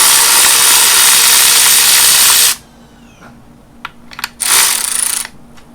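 Power tool running loudly in two runs, one of about two and a half seconds and a shorter one near the end, as it spins 10mm bolts off an LS engine's coil pack brackets.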